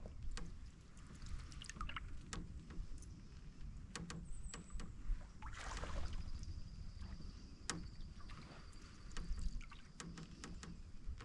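Canoe being paddled through calm water: a paddle swish about six seconds in, with scattered light knocks and creaks from the paddle and the creaky hull.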